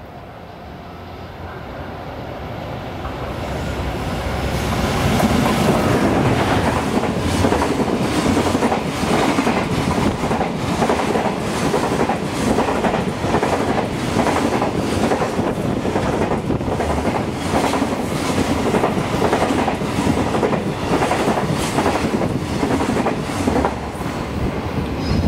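Freight train approaching and passing at speed. It grows louder over the first five seconds, then the wagon wheels clack over the rail joints in a long steady rhythm.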